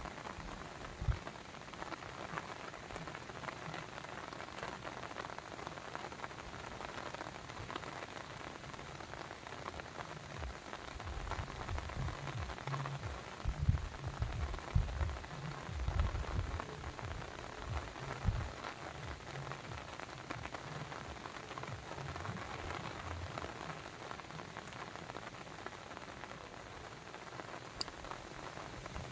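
Steady, even hiss and patter of water, with irregular soft low thumps that come thickest through the middle.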